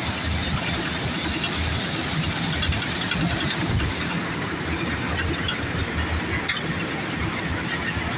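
New Holland combine harvester running steadily, a constant deep engine and machinery noise.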